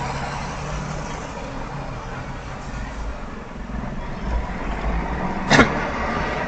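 Steady low rumble of road vehicles, with one sharp knock about five and a half seconds in.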